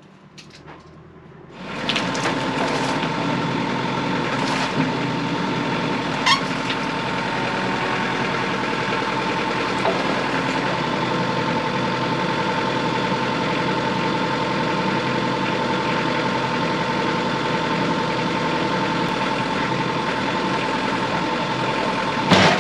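Heavy equipment engine running steadily, coming in abruptly about a second and a half in.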